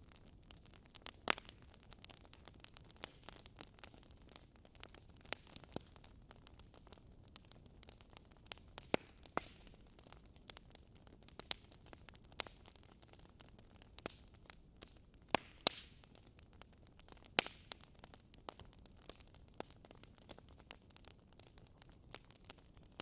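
Wood fire crackling in a fireplace: irregular sharp pops and snaps, a few clearly louder than the rest, over a low steady hiss.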